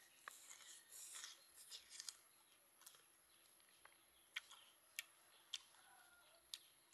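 Faint chewing of crispy fried chicken: small crunches in the first couple of seconds, then four sharp crackling crunches about half a second to a second apart in the second half. A faint bird chirps near the end.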